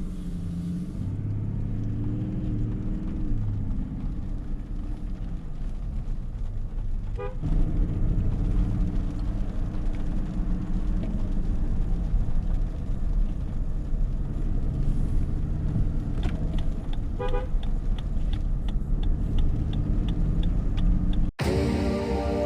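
Lexus LX 500d on the move, heard from the driver's seat: a steady low rumble of its twin-turbo 3.3 L V6 diesel and the road. Two short horn toots come about 7 and 17 seconds in. The sound cuts off abruptly about a second before the end and music takes over.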